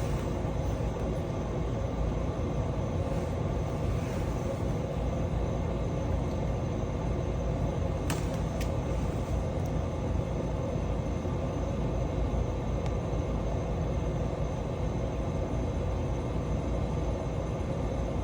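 Steady low rumble of background noise with a faint hum, and a brief click about eight seconds in.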